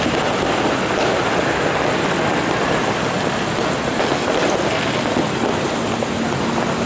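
Train passing at close range: a steady, loud noise of wheels running on the rails.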